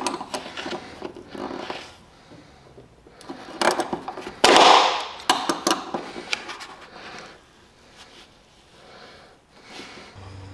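Hands working with parts and tools, likely while fitting a live-well aerator: scattered clicks, knocks and scrapes, with one louder scraping rush about four and a half seconds in.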